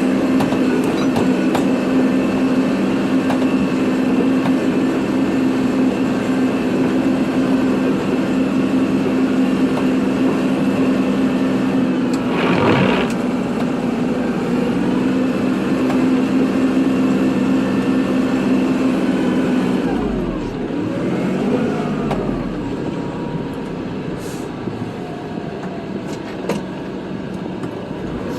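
Kubota tractor's diesel engine running steadily while plowing snow, with a brief noisy burst about halfway through. Some twenty seconds in it drops in level and its pitch wavers up and down.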